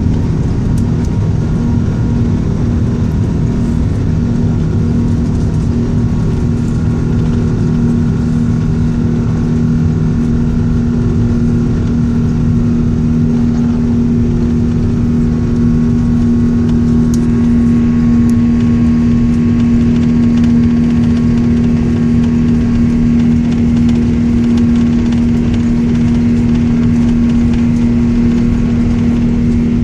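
Airbus A380 jet engines running, a loud, steady low hum with two held tones, growing slightly louder and hissier about halfway through.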